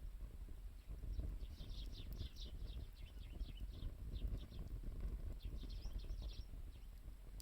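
A small bird chirping in two quick runs of high notes, over the steady low crackle of a wood fire burning.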